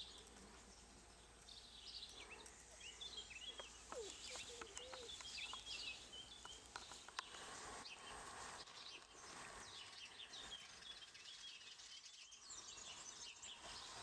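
Faint outdoor ambience with birds chirping and singing throughout, over a steady low hum.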